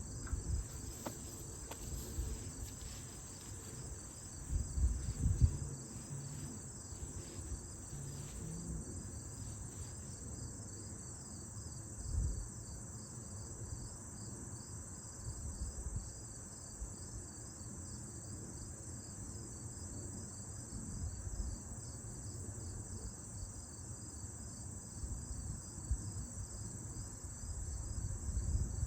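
Insects chirping steadily in a high, rapidly pulsing trill, with a few dull low thumps, the loudest about five seconds and twelve seconds in.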